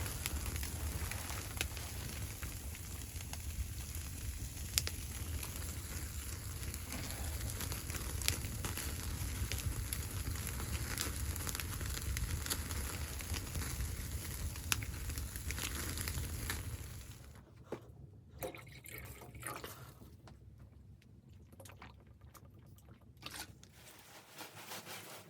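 Wood fire crackling in a wood stove, many sharp pops over a steady low rumble. It cuts off abruptly about two-thirds of the way through, leaving faint scattered clicks and knocks.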